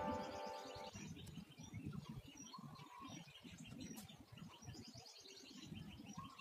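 Background music ending about a second in, then faint birdsong: repeated quick series of high chirps, with a short whistled note twice.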